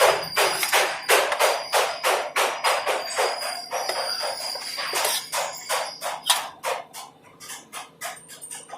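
Hammer blows on metal, about three to four a second, each strike ringing. The blows grow lighter and more spaced out near the end.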